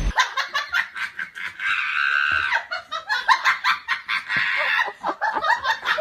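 High-pitched laughter in quick repeated bursts, giggling on and on.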